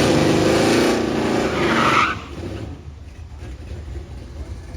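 A car engine at high revs under hard acceleration on a drag strip, its pitch bending, with a short tire squeal about a second and a half in. The engine sound drops off suddenly just after two seconds, leaving a low engine rumble.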